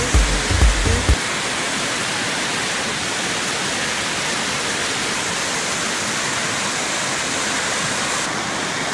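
Dance music with a beat cuts off about a second in, giving way to a steady, even rush of fast-flowing floodwater.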